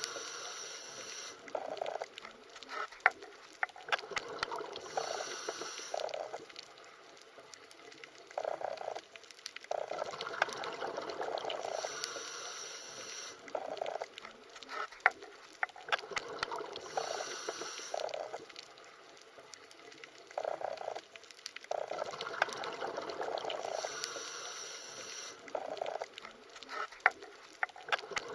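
Underwater ambience: water sounds that swell and fade every few seconds, with many scattered sharp clicks.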